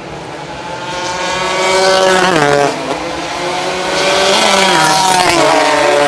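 Racing motorcycles of the 200 cc class going past at speed, their engine notes rising and then dropping in pitch as each one passes. One passes about two seconds in and another about five seconds in.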